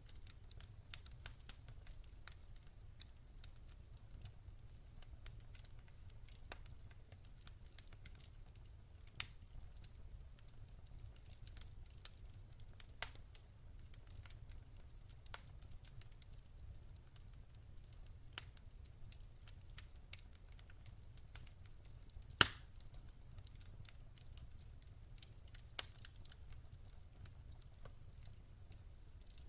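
Campfire crackling: scattered sharp pops and snaps of burning wood over a faint steady low rumble, with one louder pop about three-quarters of the way through.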